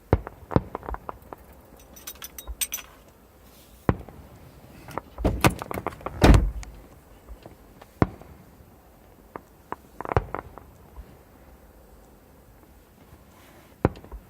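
Fireworks exploding: a string of sharp bangs at irregular intervals, with a brief spell of fine crackling about two seconds in and the loudest, rolling bangs about six seconds in.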